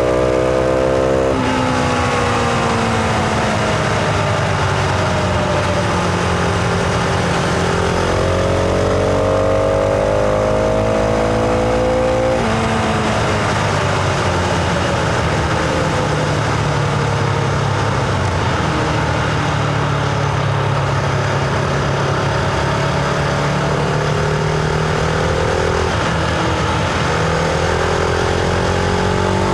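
Husqvarna Vitpilen 701's single-cylinder engine and exhaust heard from the rider's position while riding, the pitch climbing under throttle and falling off, with sudden drops about a second in, at about twelve seconds and again near the end. A steady rush of wind and road noise lies underneath.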